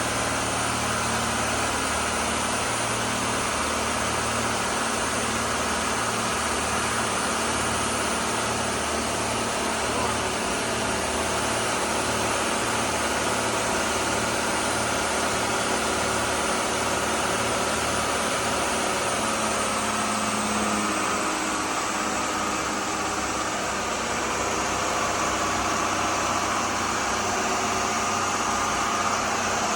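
Bayliner 4788's inboard diesel engines running steadily during a sea test: a constant drone with an even, slow throb in its low end.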